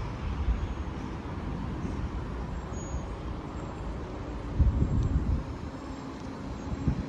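Low rumble of a train at the station platform, with a few heavy low thumps about two-thirds of the way through.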